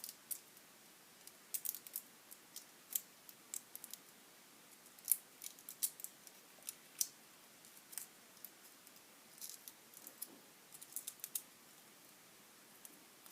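Plastic drinking straws and a wooden popsicle stick handled at close range while the straw pieces are pushed into the stick: irregular small sharp clicks and ticks, clustered in quick runs, dying away about eleven seconds in.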